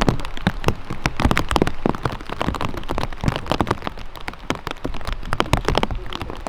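Rain falling, with many large drops striking a surface close by in quick, irregular taps over a steady hiss.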